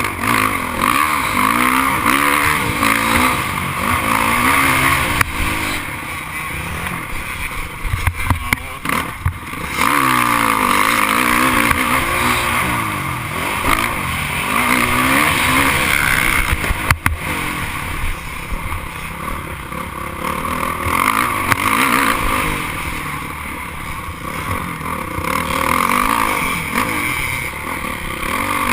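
Motocross dirt bike engines racing on the track, their pitch rising and falling over and over as the riders rev, shift and back off. A few sharp clicks stand out about a third of the way in and again just past the middle.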